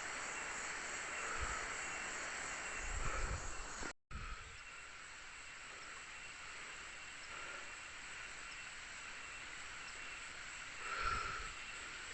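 Steady high chirring of insects in tropical forest, with a few low thumps around three seconds in and again near the end. The sound drops out for a moment at a cut about four seconds in.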